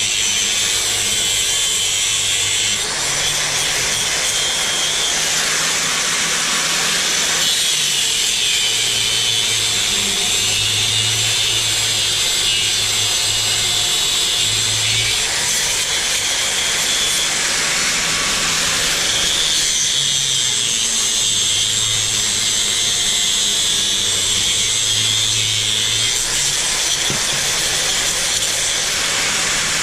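Power drill running continuously, boring a bolt hole through a wood-and-steel plate beam, its motor hum stepping up and down every few seconds as the load changes.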